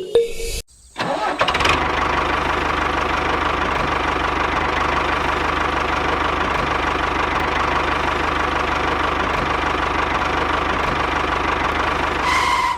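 An engine running steadily at an even speed, starting about a second in after a short gap and cutting off just before the end.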